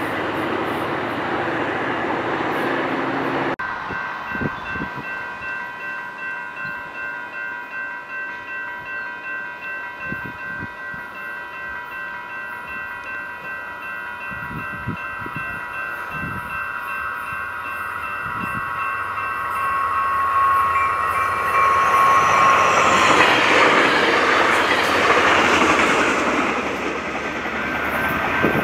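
A train rolling past on the rails, its wheels clacking rhythmically about twice a second under steady high-pitched tones. It grows louder and rushier about three quarters of the way through.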